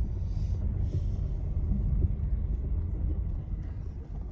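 Low, steady rumble of a car with its engine running, easing off near the end.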